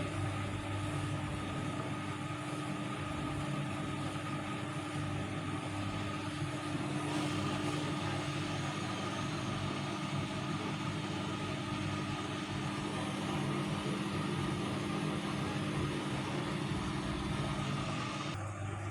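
Vestel CM8710 washing machine running its final rinse: a steady motor hum under a hiss of water. The hiss grows brighter about a third of the way in and falls back just before the end.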